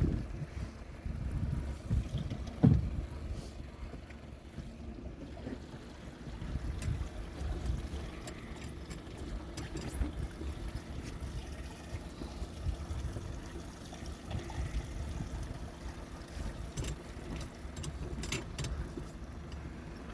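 Low, steady rumble of a boat on the water, with wind on the microphone, a sharp knock about two and a half seconds in and a few faint clicks.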